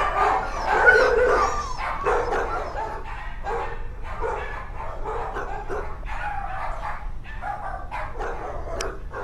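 Dog barking and yipping in a rapid string of short, high calls, loudest in the first couple of seconds.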